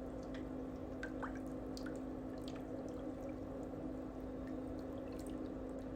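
Faint steady hum with a low tone, with a few light scattered ticks.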